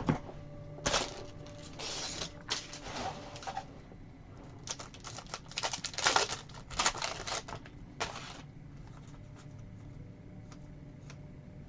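Trading cards being handled and flipped through: a run of short rustles and clicks from about a second in until about eight seconds in, then only a few faint ticks.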